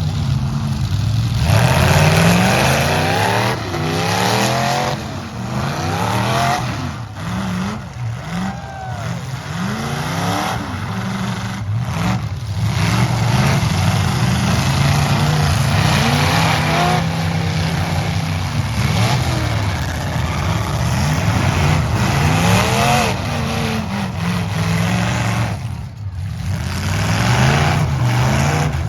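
Several demolition derby trucks' engines revving hard, rising and falling in pitch again and again and overlapping one another.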